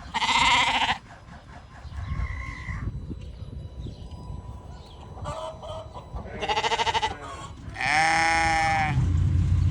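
Dorper sheep bleating: three loud bleats of about a second each, at the start, past the middle and near the end, with a few fainter calls between them. A low steady rumble comes in near the end.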